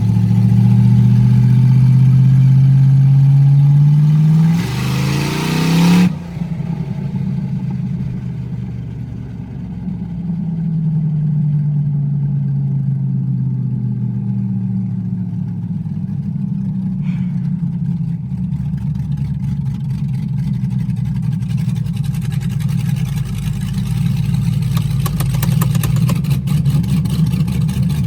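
Swapped V8 engine running hard at high, steady revs, then revving higher with a loud hissing rush for a second or two, dropping off abruptly about six seconds in. After that it keeps running with rising and falling revs.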